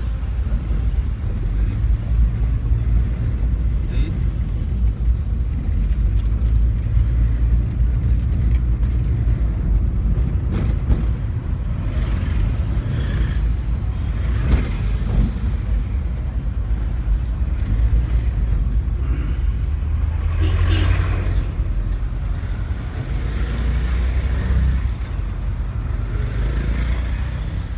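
Car on the move heard from inside the cabin: a steady low rumble of engine and road noise.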